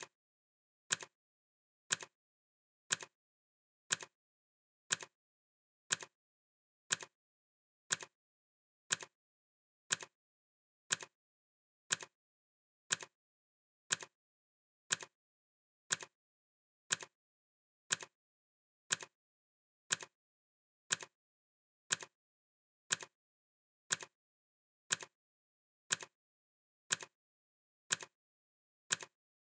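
Clock ticking sound effect: one crisp tick each second, evenly spaced, with silence between the ticks.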